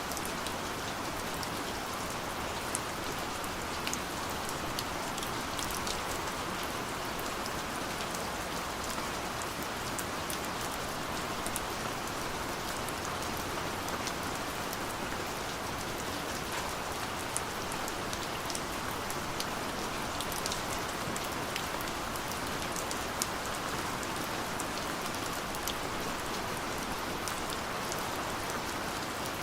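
Steady rain falling: an even, dense hiss with many small, sharp drop ticks scattered through it.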